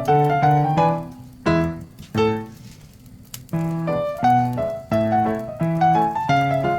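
Background piano music: single notes and chords struck one after another, thinning out to a few notes near the middle before picking up again.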